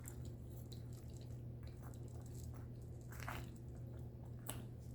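Soft wet chewing of a mouthful of turkey pot pie, with a few faint mouth clicks, over a steady low hum.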